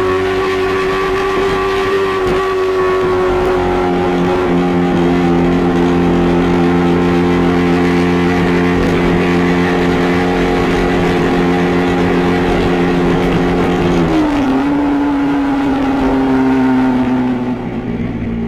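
Yamaha R15 V3's 155 cc single-cylinder engine running through its stock exhaust at steady, held revs, with the pitch dropping slightly about fourteen seconds in before fading out. The exhaust has an odd note that the owner cannot explain on a stock pipe.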